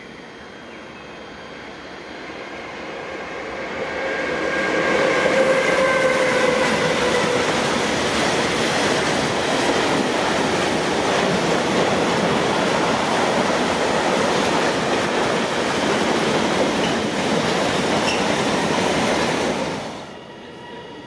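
A train passing close by: the rolling noise builds over a few seconds, stays loud for about fifteen seconds with a few steady tones early on, then drops away suddenly as the train clears.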